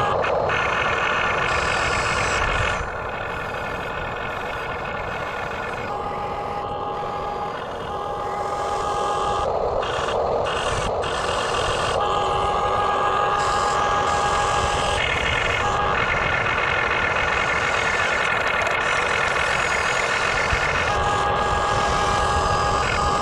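Radio-controlled toy backhoe excavator running, a steady electric whine from its motors that starts and stops in stretches of a few seconds as its parts are worked.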